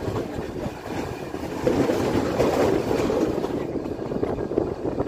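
Metre-gauge Nilgiri Mountain Railway coach running along the track, heard from an open window: a steady rumble and rattle of wheels on rails with scattered faint clicks. It swells a little between about two and three and a half seconds in.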